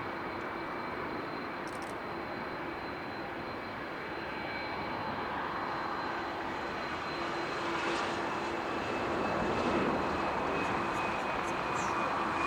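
Jet airliner engines running steadily: a wide rushing noise with a few held whining tones, growing a little louder in the second half.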